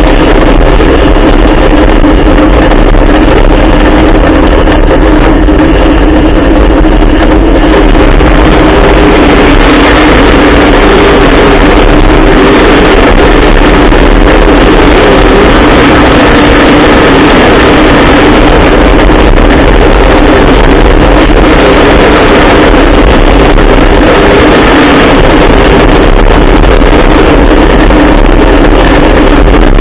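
Trophy truck's Dart 363 Ford Coyote V8 running at a steady pitch, very loud throughout.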